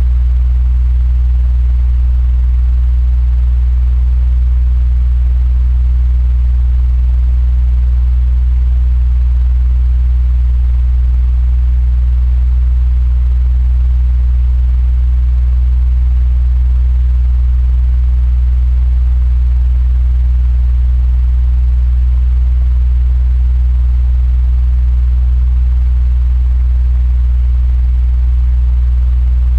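Electric fan running steadily: a strong, even low hum under a soft rush of air, with no change throughout.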